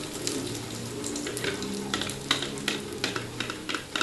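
Egg omelette frying in a pan, with a steady sizzle and sharp crackles and pops that grow more frequent from about a second in.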